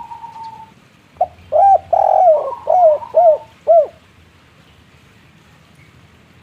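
Spotted dove cooing: one drawn-out coo at the start, then a quick run of about six short rounded coos that ends about four seconds in. This is the dove's 'kuk 3' song type.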